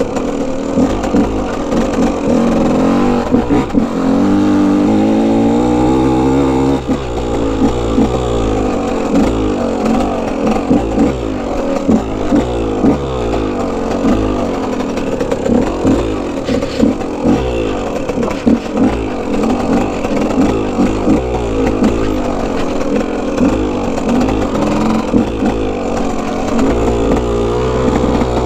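Two-stroke 125cc dirt bike engine being ridden, the revs rising and falling over and over as the throttle is opened and closed.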